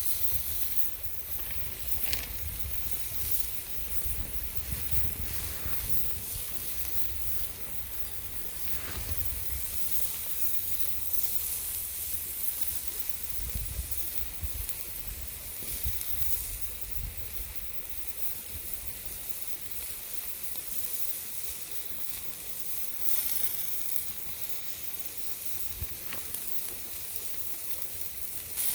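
Steady hissing sizzle of meat frying on a small iron griddle over a wood fire, with a low rumble in the first half and a few faint clicks.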